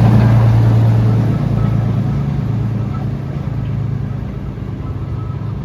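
British Rail Class 01 diesel shunter engine running as the locomotive passes. A steady low engine drone that is loudest at first and fades gradually as the shunter moves away.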